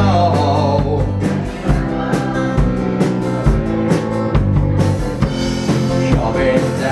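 Instrumental break of a country-rock song: a drum kit keeps a steady beat with bass drum and rimshots under bass and guitar, with no singing.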